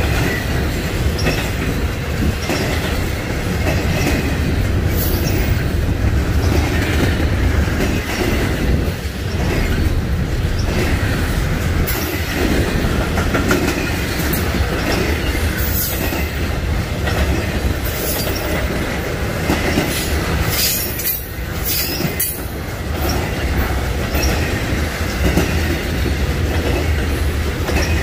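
Norfolk Southern freight train rolling past, a loud steady rumble of railcar wheels on the rails with sharp clanks now and then.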